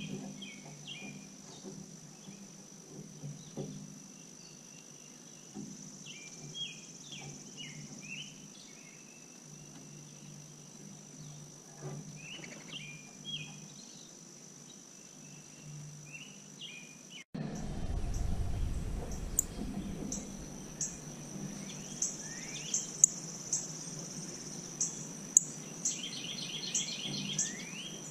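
Small birds chirping in short calls over a steady high-pitched insect drone. About two-thirds of the way through the sound cuts abruptly to a low rumble, with a run of sharp clicks close to the microphone.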